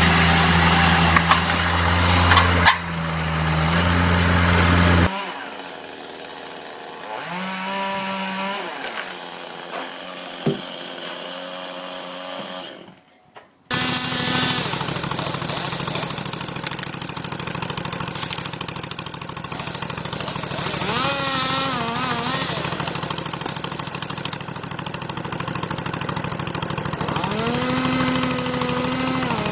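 Chainsaws running and revving, with the engine pitch rising and falling several times. The sound changes abruptly about five seconds in and drops out briefly about thirteen seconds in.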